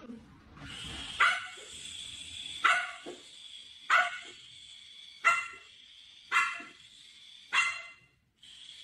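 A dog barking over and over, single barks spaced a little over a second apart, over a steady faint hiss.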